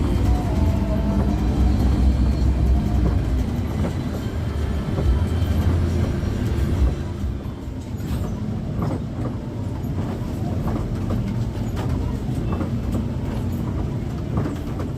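Ride noise of a Pelita Paradep bus heard from inside the cabin: low engine and road rumble with scattered rattling knocks. The rumble eases about halfway through.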